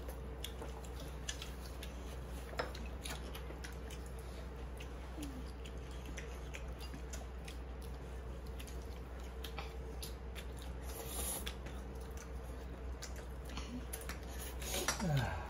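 Quiet eating sounds: chewing, with scattered light clicks of chopsticks against bowls over a steady faint hum, and a short voice-like murmur near the end.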